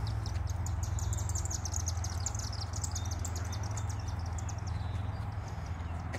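A bird's rapid, high trill of many short notes, dying away about halfway through, over a steady low hum.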